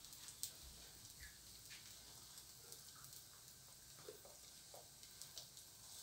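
Near silence: a dosa cooking on a hot pan gives a faint steady sizzle, with a few soft ticks.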